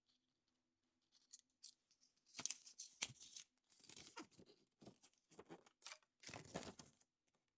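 Foil wrapper of a chocolate surprise egg being torn and crinkled open: a run of short rustling, tearing bursts starting about two seconds in.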